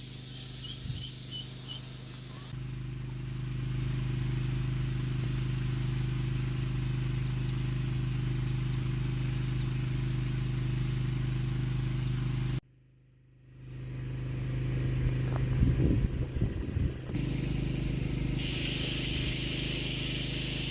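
A motor running steadily at a constant pitch, growing louder a few seconds in.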